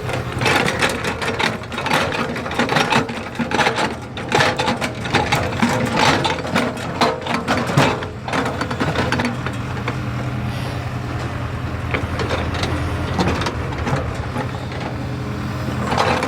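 JCB excavator's diesel engine running, with busy rattling and clanking for about the first half, then settling into a steadier engine drone.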